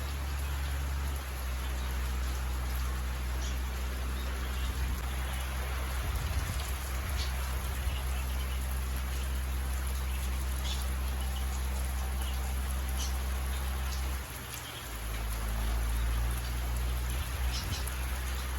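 Steady rain falling, a constant hiss with scattered drip ticks over a continuous low rumble that briefly drops away near the end.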